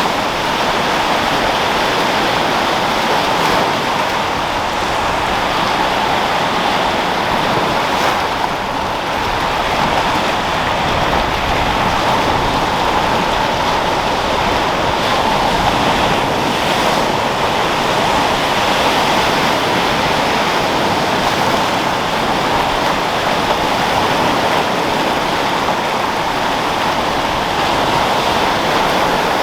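Sea waves and wind making a steady, even rushing noise with no distinct breaks or surges.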